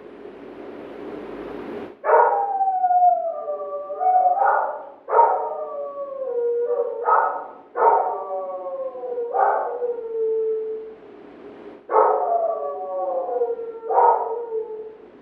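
A dog barking and howling: about eight calls in a row, each starting sharply and sliding down in pitch over a second or so. A short hiss comes before the first call.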